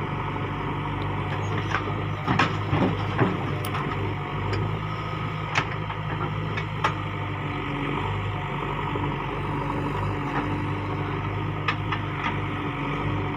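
Heavy diesel engine running steadily at an unchanging pitch, with a cluster of sharp knocks and clatters about two to three seconds in and a few single knocks later.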